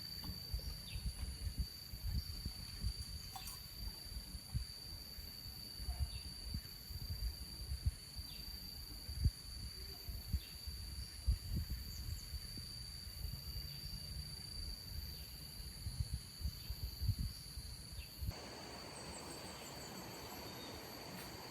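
Insects calling outdoors, a steady high shrill that doesn't change, over irregular low thumps. About 18 seconds in, the thumps stop and a soft even hiss takes over, while the insect tone goes on.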